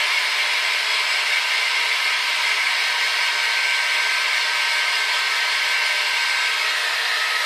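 Hair dryer running steadily: an even rushing hiss of fan and blown air with a faint steady whine, holding the same level throughout.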